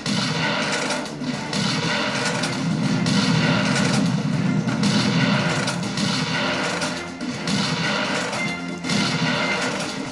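Video game audio played through the Armaggeddon X-Bar 2 gaming soundbar: continuous music with thuds and gunfire-like impacts mixed in.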